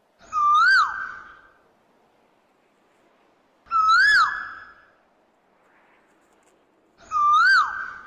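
A bird calling three times, about every three and a half seconds: each call is a single loud whistled note that rises and then falls.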